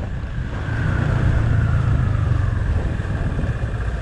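Motorcycle engine running under way while riding, with wind noise over the microphone; the engine note gets a little louder about a second in.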